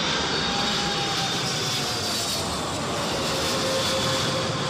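Jet engines of a Boeing 777 on final approach passing low, a steady rushing noise with a whine that slowly falls in pitch.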